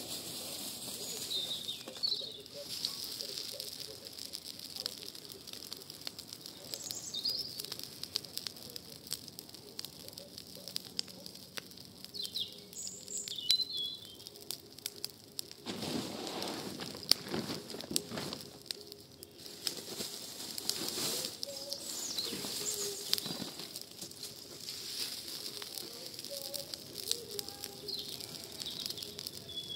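Wood campfire crackling, with many sharp pops and snaps, and a louder rushing swell about halfway through. Birds chirp briefly now and then in the background.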